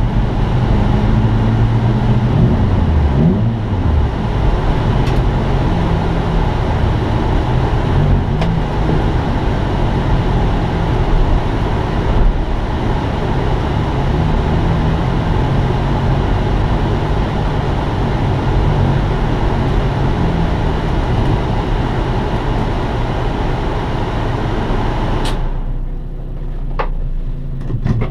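Mitsubishi Colt GLi's 1.3-litre inline-four running at low revs through a Kawasaki Ninja motorcycle exhaust, heard inside the stripped cabin as the car crawls along. Near the end a click is followed by the sound abruptly dropping away, leaving a low hum and a few clicks.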